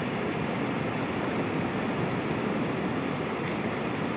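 Sea waves and surf washing in a steady, even rush.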